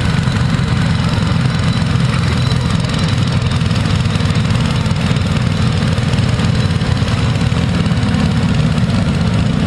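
Farm tractor engine running steadily at an even pitch under load, pulling a weight sled down the track.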